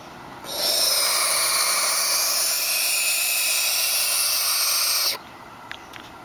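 Barn owl chicks giving one long rasping hiss that lasts about four and a half seconds: the ornery, defensive hiss of nestling barn owls. Near the end there are a couple of faint clicks.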